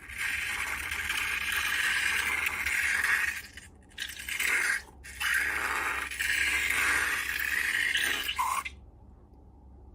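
Slime being handled and worked: a crackly, scraping noise that comes in three stretches with short breaks and stops about a second before the end.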